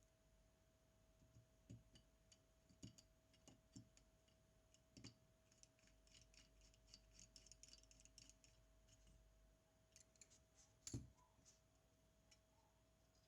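Faint, scattered clicks and light taps of small metal tools and parts being handled during a camera repair, with a denser patter of small ticks in the middle and the sharpest tap about eleven seconds in. A faint steady tone sits underneath throughout.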